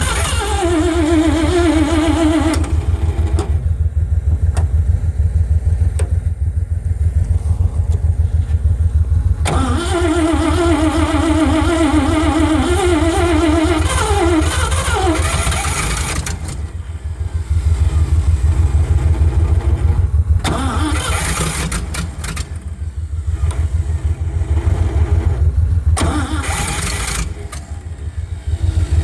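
Starter motor cranking the Cockshutt 555 combine's Chrysler 318 V8 in two long spells, one at the start and one from about ten seconds in that winds down in pitch, with short bursts later, and the engine not catching. The owner puts this down to the engine being slow to draw fuel up from its tank on a cold start. A steady low engine throb runs underneath throughout.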